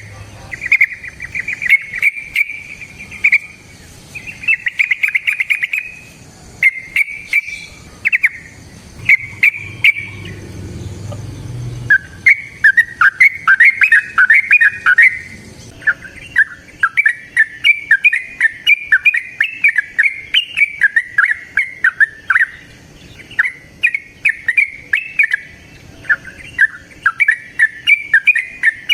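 Yellow-vented bulbul (trucukan) singing: short bubbly phrases separated by pauses for the first eleven seconds or so, then a long, almost unbroken run of rapid chattering song, the 'ropel' that birdkeepers prize.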